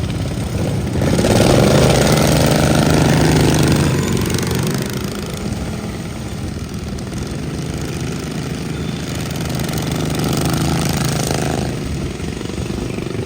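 Racing riding lawn mower engines running hard as the mowers lap the track, swelling loudest for a few seconds about a second in as they pass close, then carrying on at a steadier, lower level.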